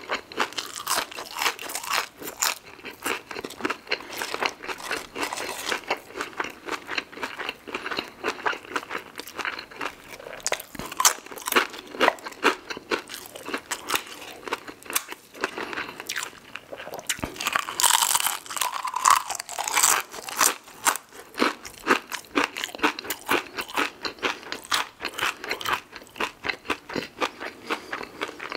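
Close-miked crunching and chewing of crispy fried food, cajun fries and a tortilla chip dipped in sauce, with dense, irregular crackly crunches throughout.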